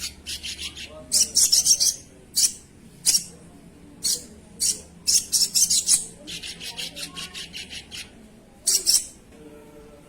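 Spiderhunter (sogok ontong) calling: short runs of sharp, high chirping notes, several a second, repeated over and over.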